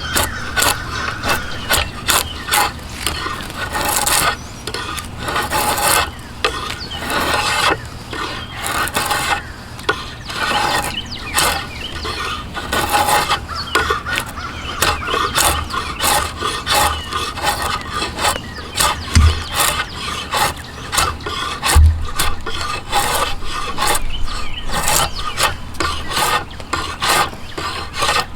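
A hand tool scraping and rasping yew wood in many quick, uneven strokes, with a couple of dull low knocks partway through.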